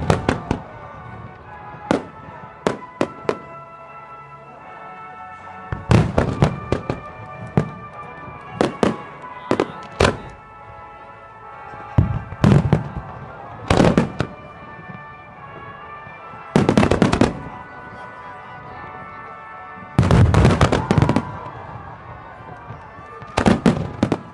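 Fireworks display: clusters of rapid bangs and crackles every few seconds from aerial shells and water-surface fan fireworks, with music playing steadily underneath.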